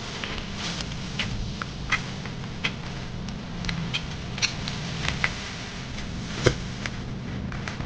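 Close-up chewing and biting into a rice wrap in leafy greens. It makes scattered short mouth clicks and smacks, the sharpest about six and a half seconds in, over a low steady hum.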